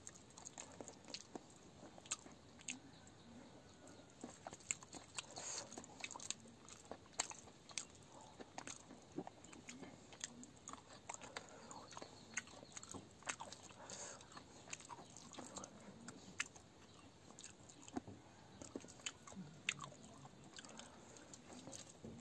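A person eating rice by hand, heard up close: quiet chewing with many short, sharp mouth clicks and smacks.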